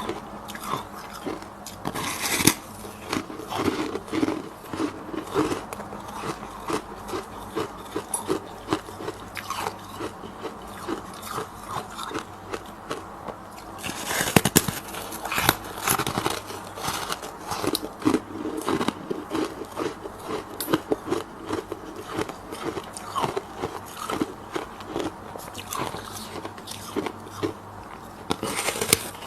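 A person biting and chewing freezer frost: a steady stream of crisp, irregular crunches, with louder bursts of bites about two seconds in, around the middle, and near the end.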